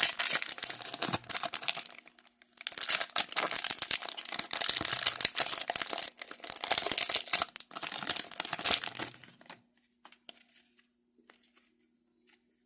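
A trading-card pack wrapper being torn open and crinkled in three long, noisy stretches. Then comes a few seconds of faint light ticks as the cards are handled.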